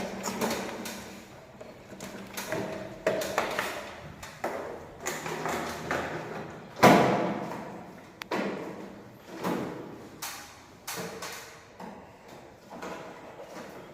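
A series of irregular knocks and thuds, one or two a second, with the loudest about seven seconds in.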